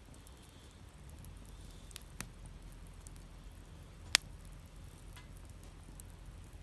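Campfire crackling quietly, with a few scattered pops and one sharp, loud pop about four seconds in.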